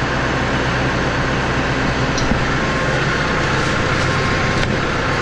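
Tractor's diesel engine running steadily at idle, a low even hum under a broad hiss.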